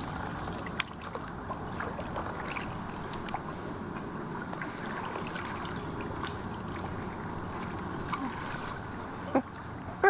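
Kayak paddling: paddle blades dipping and splashing in calm water, with small scattered knocks and a sharper knock near the end.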